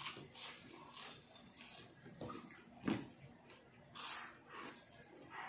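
Biting and chewing crispy battered shrimp tempura: a series of short crunches a second or so apart, the loudest about three and four seconds in.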